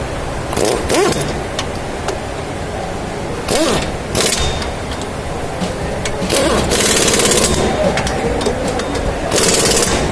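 Pneumatic impact wrench run in four short bursts with a rapid hammering rattle, the tool spinning up at the start of some bursts, typical of bolts being run in while a new rear hub bearing is fitted.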